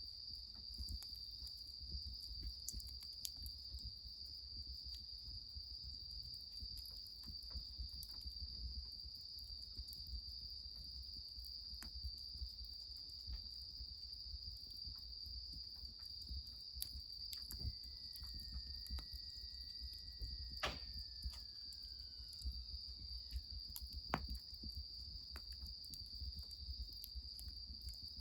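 Crickets trilling in one steady high-pitched chorus, with scattered sharp crackles from a wood fire and a low rumble underneath. A faint falling whistle-like tone passes about two-thirds of the way through.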